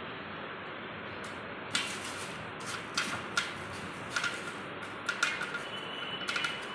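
Steady background hiss with a string of short, light clicks and knocks at uneven spacing, starting about two seconds in.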